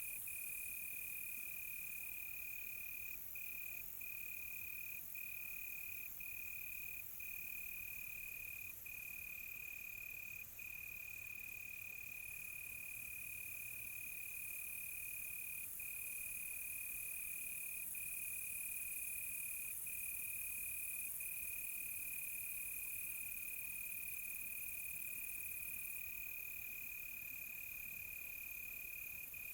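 Crickets trilling at night: one steady, high trill with short breaks every few seconds, over a steady high hiss.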